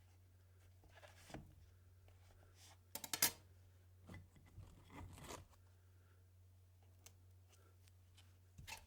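Metal spatulas scraping and tapping on a frozen ice cream plate in a few separate strokes, with a louder burst of quick clicks and crunching about three seconds in, over a faint steady low hum.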